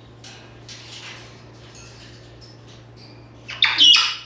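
African grey parrot moving about its cage with faint scratching and rustling, then a short, loud squawk near the end.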